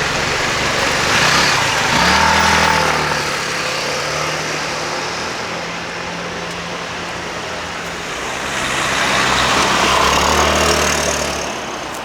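Street traffic: motor vehicles driving past close by over a steady traffic hiss. A low engine hum swells with two louder pass-bys, one about two seconds in and another from about nine to eleven seconds.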